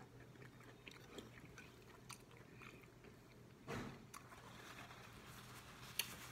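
Faint close-up chewing of a mouthful of food, with light clicks and scrapes of a plastic fork on the plate; a short louder scrape a little after halfway as a forkful of rice is scooped up, and a sharp click near the end.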